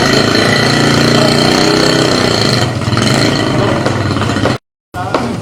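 A small engine running steadily at a fast, even speed, cutting off abruptly near the end.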